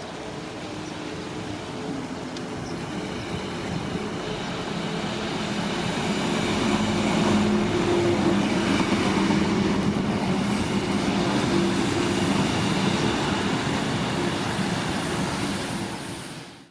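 Electric regional express train running past on the tracks, growing louder to a steady peak with a low hum and some higher steady tones, then dying away near the end.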